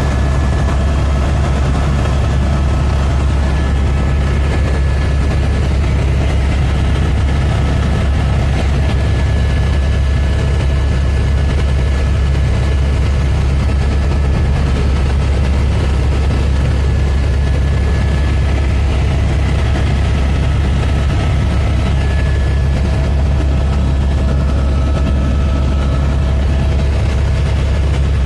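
Helicopter in flight: a loud, steady engine and rotor drone with a deep hum and a few faint steady whining tones.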